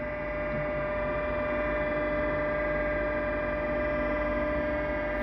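Blade grinder running with a steady hum of several fixed tones, its grinding cup spinning as it is wound down for a very fine first touch on the moulder cutter blades.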